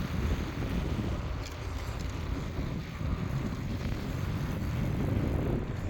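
Wind buffeting the microphone of a bicycle rider's camera, a steady low rumble with a couple of faint clicks.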